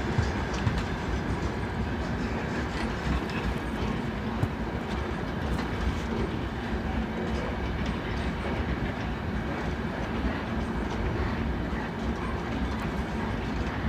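Freight train's wagons rolling past, a steady rumble of steel wheels on rail with faint scattered clicks.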